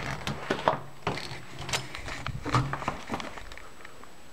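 A series of sharp clicks and knocks, like doors or drawers being opened and handled, over a low steady hum that stops about three seconds in.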